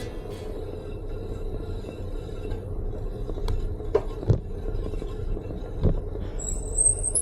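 Folding eBike rolling over a rough shale path: a steady low rumble of tyres and wind, with a few sharp knocks as the bike jolts, the loudest about four seconds in. A brief high squeak comes near the end.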